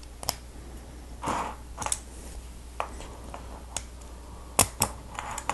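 Plastic Lego Technic pieces being handled: a scattered series of sharp clicks with brief rustles, the two loudest clicks close together near the end.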